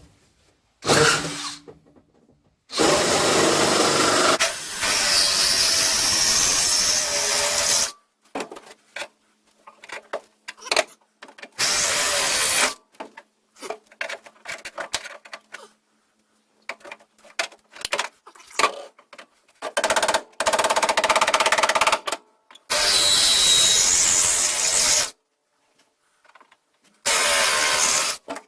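Power drill with a spot weld cutter bit cutting into sheet steel, drilling out the spot welds that hold a car's seat pan. It runs in about six separate bursts, the longest about five seconds, with short pauses and light clicks between them.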